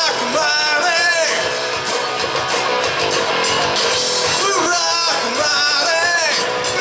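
Rock and roll song played live, with guitar and a singing voice: one sung phrase at the start and another from a little past the middle, with the band playing on between them.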